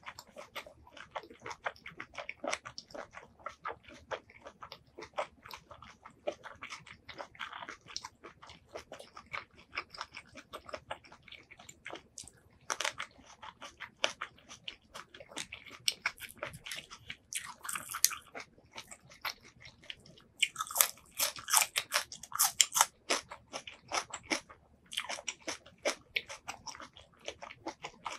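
A person chewing crunchy food close to the microphone: many quick crisp crunches and bites, coming in louder spells in the second half.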